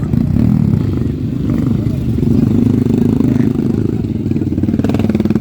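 Trail motorcycle engine revving while held in neutral, its rapidly pulsing exhaust note rising a little around the middle and holding there.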